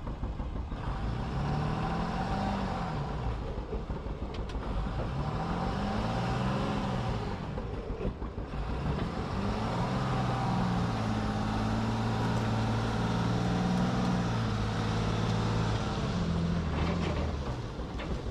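Ram 3500 pickup's Cummins diesel engine revving as the truck tries to drive out of sloppy mud: the revs rise and fall twice, then hold high and steady for several seconds.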